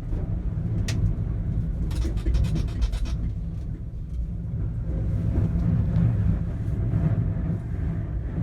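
Low rumble of high wind buffeting a swaying gondola cabin, with a sharp click about a second in and a run of rapid rattling clicks at two to three seconds.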